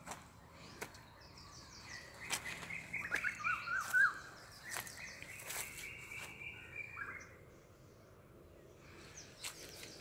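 Wild birds calling and chirping, with a run of quick warbling notes about three to four seconds in. Scattered sharp clicks and rustles sound throughout. It quietens for a few seconds near the end.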